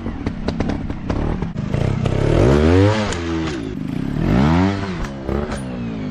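Motocross dirt bike engine revving, rising and falling in pitch twice, with sharp clattering knocks through the first half.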